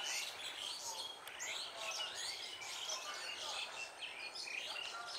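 Several birds chirping and calling, many short overlapping calls.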